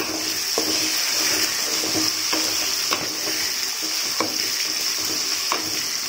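Shallots, tomatoes and spices sizzling in oil in a metal kadai while a flat spatula stirs them, scraping the pan about once a second over the steady sizzle.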